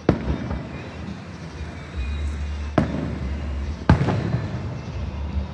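Fireworks shells bursting overhead: three sharp bangs, one at the start, one near three seconds in and one about four seconds in, each trailing off in a rolling echo.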